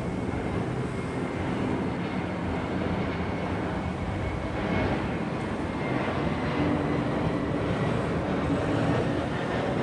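Aircraft engines of a passing plane, a steady noise with a faint high whine, getting a little louder from about halfway through.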